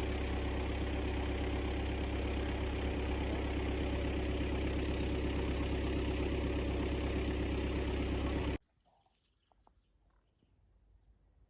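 A vehicle engine running steadily, cutting off abruptly about eight and a half seconds in. After that it is quiet, with a few faint bird chirps and small clicks.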